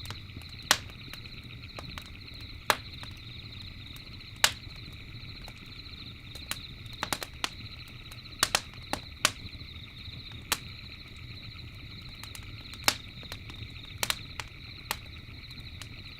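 Campfire crackling, with irregular sharp pops and snaps from the burning wood over a low steady rumble of the flames. Underneath runs a continuous high trilling chorus of night insects.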